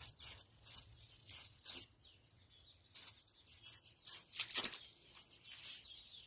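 Faint, irregular metallic clinks and taps of hand tools against engine parts during disassembly, with a louder cluster of strikes about four and a half seconds in.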